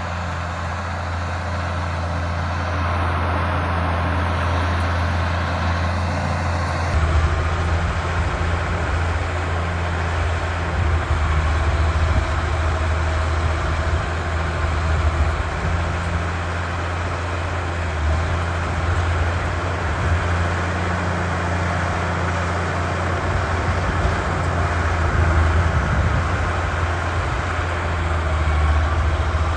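Engine of heavy farm machinery running steadily with a low, continuous drone. Its sound shifts about seven seconds in.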